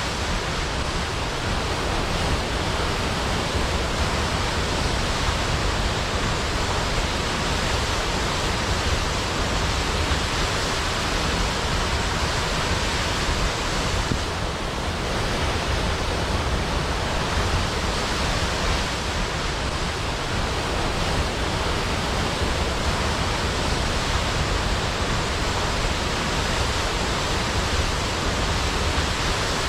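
Large waterfall cascading down a cliff into a pool, a steady dense rushing roar of falling water with no distinct splashes or other events.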